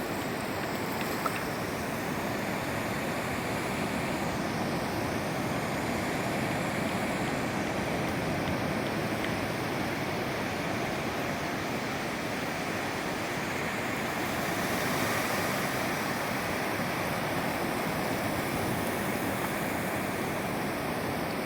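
Steady rush of moving water, with a single brief click about a second in.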